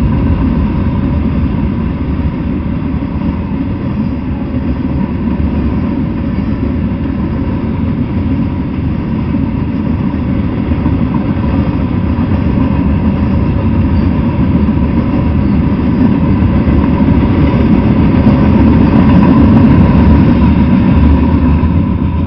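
Freight train of open-top cars rolling past at speed: a steady rumble of steel wheels on the rails with a thin steady ring above it, swelling slightly near the end as the last car, carrying its flashing red end-of-train marker, goes by.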